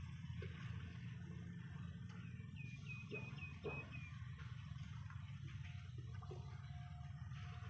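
A bird calling a quick run of about six short high notes, over a steady low rumble.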